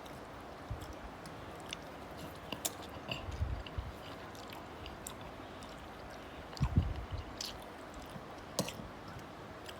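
A person chewing a mouthful of food close to the microphone, with scattered small clicks and crunches. There are two louder stretches of chewing, about three and a half and about seven seconds in.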